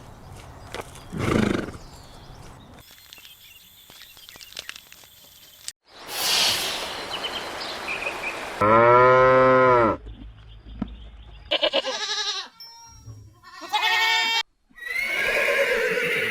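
A string of separate farm-animal calls, one after another with short gaps between them. The loudest is a pitched call a little over a second long, about halfway through.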